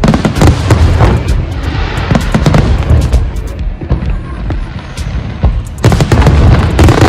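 Aerial fireworks going off in rapid succession: deep booms mixed with sharp cracks. They ease off in the middle, then build to a dense barrage near the end.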